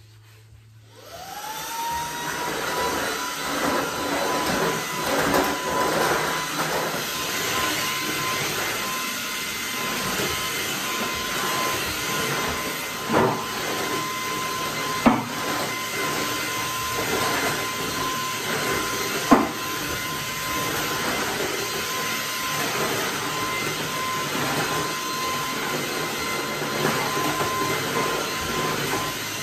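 Vacuum cleaner switched on about a second in, its motor whine rising and settling to a steady pitch as it runs. A few short knocks sound over it as it is pushed around.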